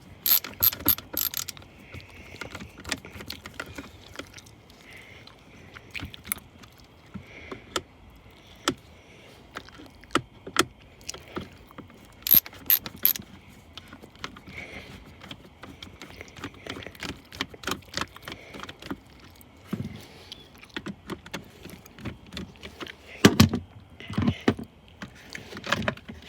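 Screws being turned out of a plastic Mainstays fan heater casing and the casing being handled and worked loose: scattered small clicks and ratcheting ticks, with louder knocks at the start, about halfway, and near the end.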